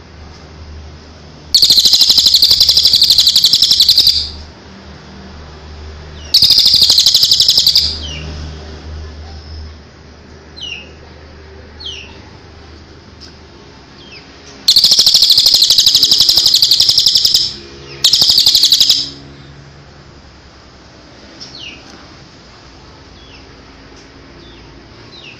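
A songbird singing loud, rapid trills in four bursts of one to three seconds each, with faint short downward-sliding chirps in the gaps between them.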